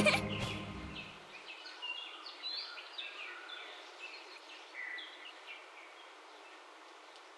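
Faint birds chirping, many short scattered calls, over a light outdoor hiss. A fading tail of music is heard in the first second.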